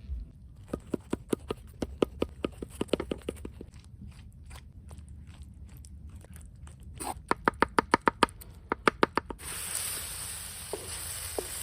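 A utensil clicking rapidly against a bowl in two quick runs, as when beating eggs. Near the end, food starts to sizzle in a hot pan.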